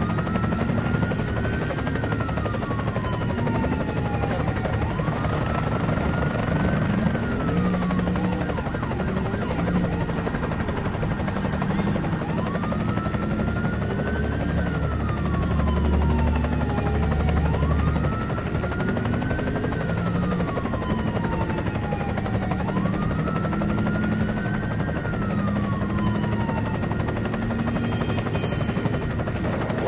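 Police siren wailing in slow cycles, each a quick rise then a longer fall in pitch, about every five seconds, over a steady low mechanical drone.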